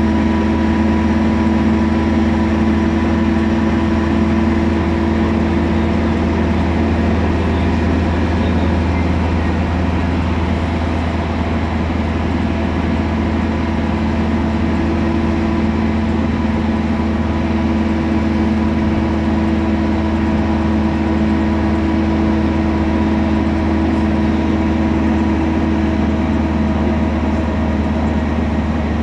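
Temsa Prestij SX midibus running steadily, a loud low drone with a steady whine over it that holds one pitch throughout.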